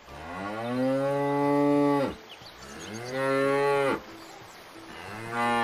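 Cow mooing three times: a long moo of about two seconds, then two shorter moos.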